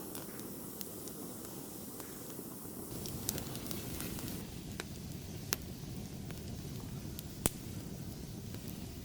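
Campfire burning: a steady low rush with scattered sharp crackles and pops from the wood, the loudest pop about seven and a half seconds in.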